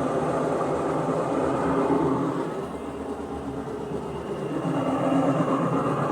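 Electrolux LSE15 Essential Care washing machine in its spin cycle, making a loud, continuous mechanical rumble that eases for a couple of seconds mid-way and builds again; the noise is diagnosed as a faulty gearbox (transmission).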